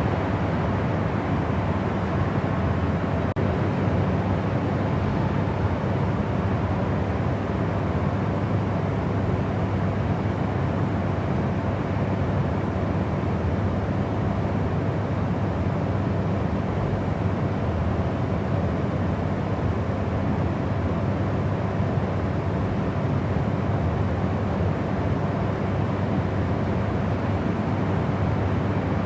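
Steady sleep white noise: a continuous, even rush that is heavier in the low end and fades toward the treble, with no changes.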